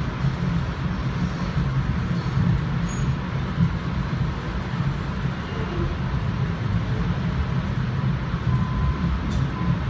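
Steady low rumble of an NJ Transit Comet commuter coach running along the track, heard from inside the car.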